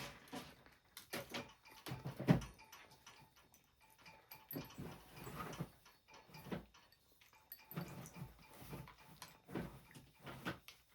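Cats eating dry food: an irregular run of crunches, clicks and soft knocks of kibble and bowls, with a louder knock about two seconds in.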